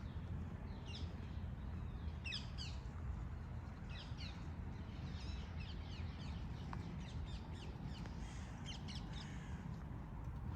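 Small birds chirping: short, high, falling notes in quick runs of two or three, over a steady low background rumble.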